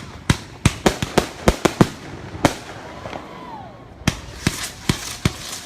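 Fireworks going off: a rapid run of sharp bangs, about eight in the first two and a half seconds, then a short lull, then another quick cluster of about five bangs.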